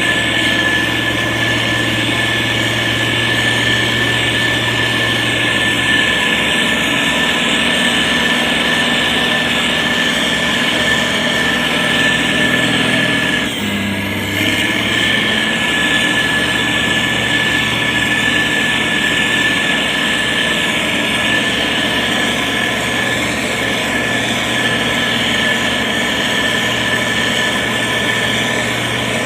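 Diesel engine of a SANY STG190C-8S motor grader running steadily under load while spreading gravel, with a steady high whine over the engine note. About halfway through it dips briefly, then the engine note settles slightly differently.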